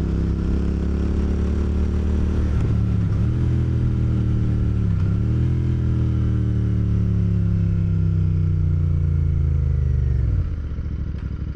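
Motorcycle engine running under way. The engine note dips briefly about three and five seconds in, then its pitch slowly falls as the revs ease off, dropping away near the end.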